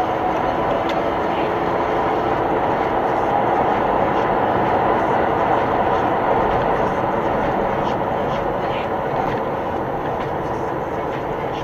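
Steady rumble of a moving car's road and engine noise, heard from inside the cabin, without sudden knocks or impacts.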